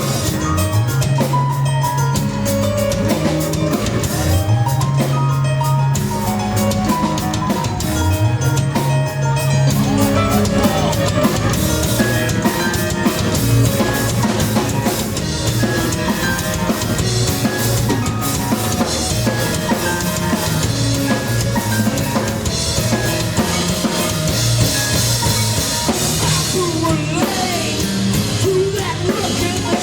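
A live rock band playing an instrumental passage: a drum kit with a bass line that slides up in pitch every few seconds through the first half.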